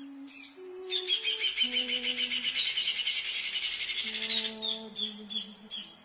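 Rufous hornero singing: a fast run of sharp, chattering notes lasting about three and a half seconds, then slowing to a few separate notes near the end.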